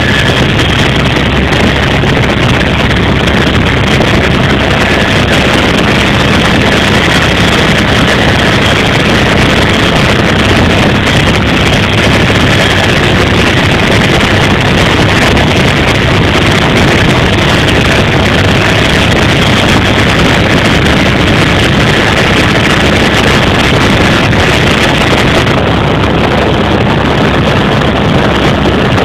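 Helicopter in flight: loud, steady engine and rotor noise with a faint steady whine.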